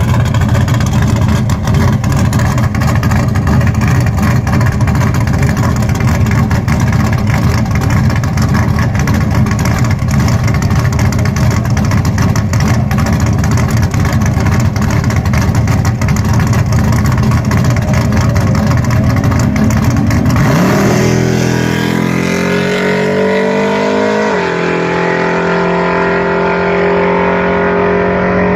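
Car engine running loud and rough and steady for a long stretch. Then the engine note climbs, drops abruptly as with a gear change, and holds.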